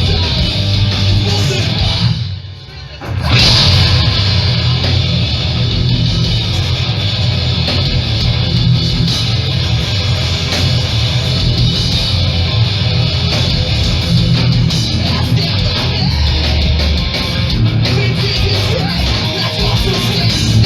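Hardcore punk band playing live at full volume, heard through the club's PA. About two seconds in, the band stops for about a second, then crashes back in.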